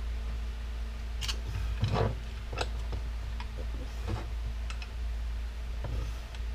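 Scattered small clicks and taps of a hand tool working at the metal retaining clips on a RYOBI electric power washer's pump, with a short scrape about two seconds in, over a steady low hum.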